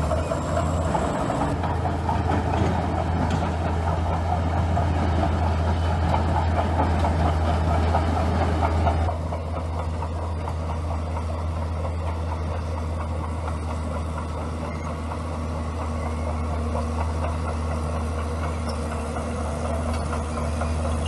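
Bulldozer's diesel engine running with a steady low hum. It is louder for the first nine seconds, then drops back sharply and runs on more quietly.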